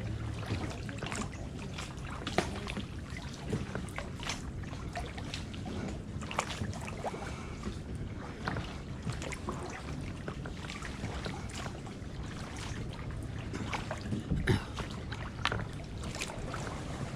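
Kayak paddling: irregular knocks and clicks of a paddle against the hull, with water splashing and dripping from the blades. There is a sharper knock about two seconds in and a cluster of louder ones near the end.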